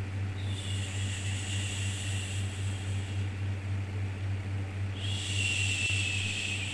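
Long drawn-out 'shhh' shushing sounds for soothing a baby. One fades out about two seconds in and another begins about five seconds in, over a steady low white-noise hum.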